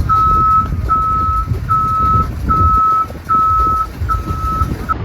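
Vehicle back-up alarm beeping: a single high steady tone repeating about once every 0.8 s, over a low rumbling background noise. The beeping stops right at the end.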